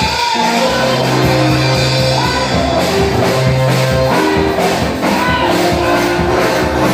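Live church band music with electric guitar, organ-like held notes, bass and drums keeping a steady beat.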